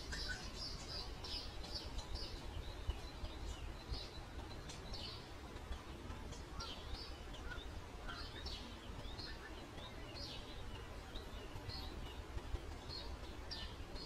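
Weaver birds chirping at their woven nest: a quick, irregular run of short, high chirps, over a low steady background rumble.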